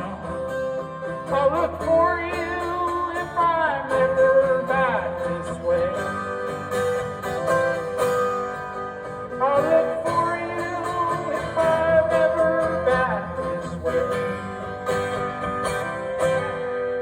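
Live country-folk song: strummed acoustic guitar with a wavering lead melody above it.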